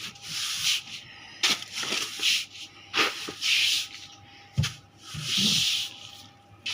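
A series of rubbing, swishing cleaning strokes across the floor, each under a second, with a few sharp knocks between them.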